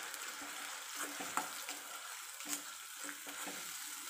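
Onions and ground masala paste sizzling in oil in an iron kadai while a steel spoon stirs them, with a steady hiss and a few sharp scrapes or taps of the spoon on the pan. The paste is being fried down until the oil separates.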